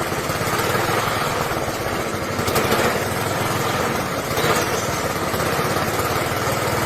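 Steady running of an engine or motor with a fast low flutter, unchanged throughout; no clear animal call stands out over it.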